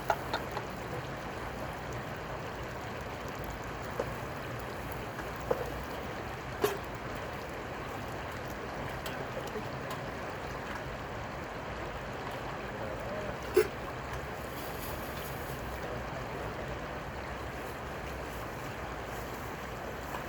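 Steady rushing of river water, broken by a few short, sharp knocks, the loudest about two-thirds of the way through.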